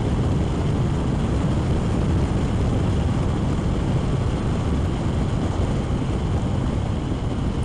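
Steady rush of wind and road noise from a motorcycle riding at speed, with wind buffeting the microphone.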